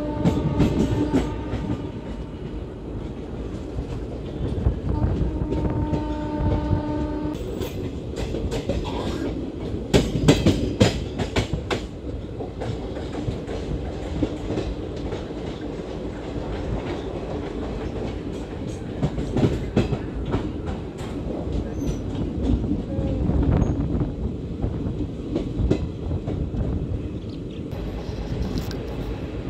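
ICF passenger coaches running at speed, heard from the open doorway: a steady rumble of wheels and wind with clickety-clack over the rail joints. A train horn sounds twice near the start, the second time longer, and about ten seconds in there is a burst of clattering as the wheels cross points.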